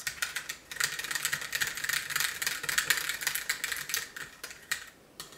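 Mini whisk stirring fast in a small container, a quick rattle of wire clicking against the sides as titanium dioxide powder is dissolved in hot water. The stirring stops near the end.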